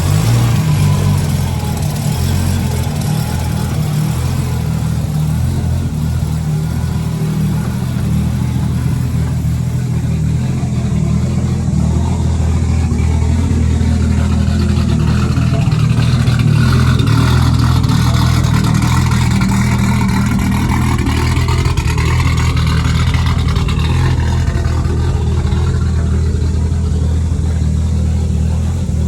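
Turbocharged Nissan RB20E straight-six running on its first start after the big-turbo conversion. It runs steadily, with the engine pitch rising and falling a little through the middle.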